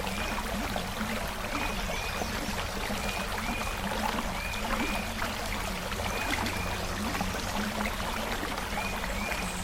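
Creek water flowing steadily. A short high chirp, mostly in pairs, recurs every second or so over it.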